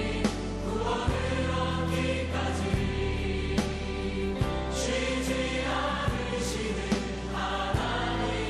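Christian worship song with a choir singing over a band, bass notes held under a steady, slow drum beat.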